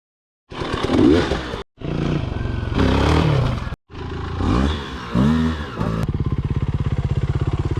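Dirt bike engines revving in short clips cut together, the pitch rising and falling, with abrupt breaks between clips. Near the end, one engine settles into a steady idle.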